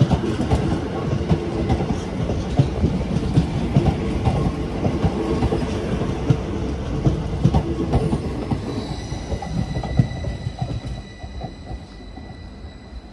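A train moving through the station: a low rumble with rapid clattering of wheels over rail joints and points, dying away over the last few seconds. About nine seconds in, a thin steady high squeal comes in from the wheels.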